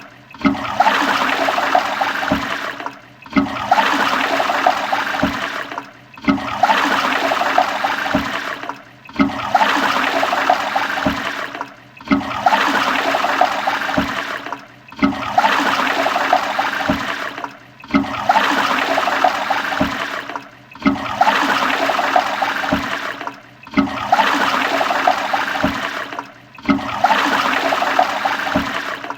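Toilet flushing: loud rushing, gurgling water that cuts out briefly and starts again about every three seconds, the same flush repeating over and over.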